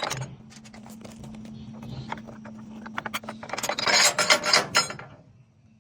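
Metal clicks and rattles of a removable D-ring and its locking pin being handled and set in place, with a quicker run of rattling about four seconds in.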